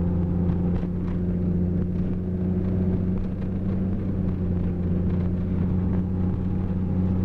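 Jeep Grand Cherokee ZJ driving on a snowy road: a steady low engine drone with road and tyre noise, heard from inside the cab.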